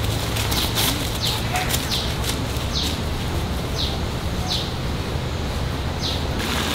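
A bird repeating a short high note that falls in pitch, about once a second, over steady outdoor background noise. Footsteps rustle through undergrowth in the first two seconds.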